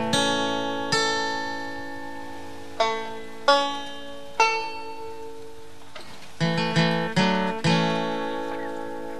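Background music: acoustic guitar picked slowly, with single notes and chords struck and left to ring out, and a quicker run of notes a little past the middle.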